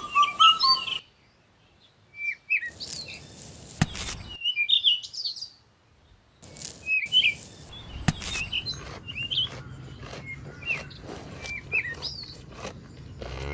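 Small birds chirping in short rising and falling notes, broken twice by abrupt silent gaps, with a few sharp clicks between the chirps.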